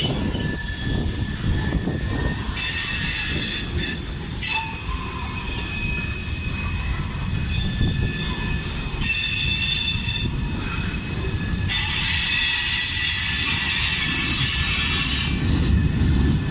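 Freight train cars rolling past with a steady low rumble of wheels on rail. A high-pitched wheel squeal comes and goes in several stretches over it, loudest in the last few seconds.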